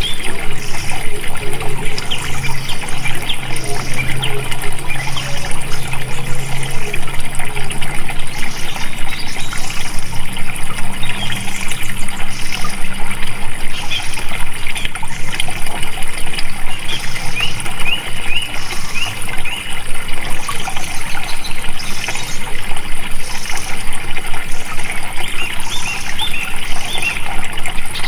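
Flowing water trickling and splashing continuously, full of small bubbling and dripping sounds. A low steady hum sits under it for roughly the first half, then fades.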